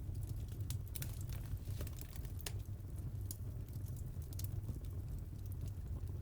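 Wood fire crackling in a fireplace: irregular sharp pops and snaps, thickest in a cluster about a second into the sound, over a steady low rumble of the flames.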